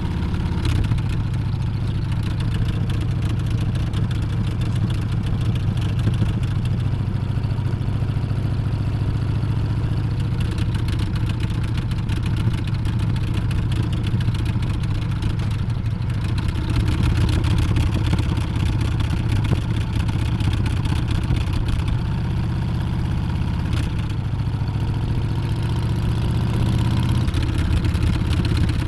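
Harley-Davidson Street Bob's Milwaukee-Eight 114 V-twin running on the move, a steady low exhaust note. Its pitch shifts with the revs about a second in, around halfway and again near the end.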